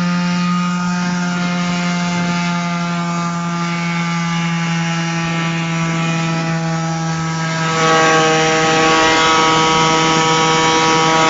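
A small motor running at a steady, unchanging pitch, growing louder and brighter about eight seconds in.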